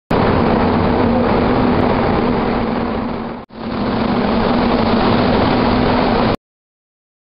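Automotive paint spray gun and compressed air in a body shop, a steady loud rush of air that dips out briefly about halfway and then stops abruptly.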